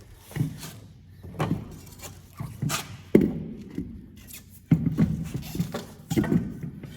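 Irregular heavy thuds and knocks, about six of them, as a large truck tire and aluminium wheel is shifted and pushed onto the hub studs.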